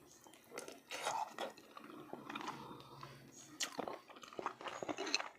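A person chewing food close to the microphone, with irregular wet smacks and clicks of the mouth.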